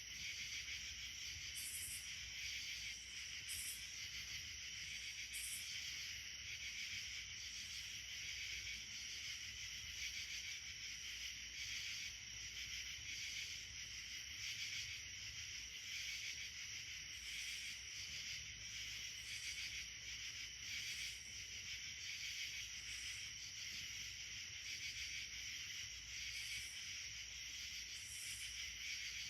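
Steady chorus of insects, a dense high shrill hum. Short, higher-pitched calls rise above it every couple of seconds near the start and again near the end.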